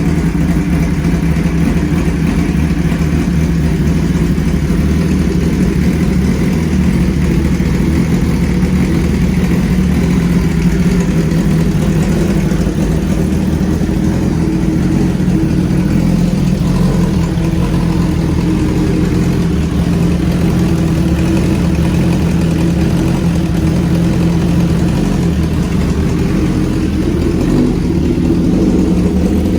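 2005 Suzuki GSX-R1000's inline-four engine running steadily at idle through an aftermarket Brock's exhaust.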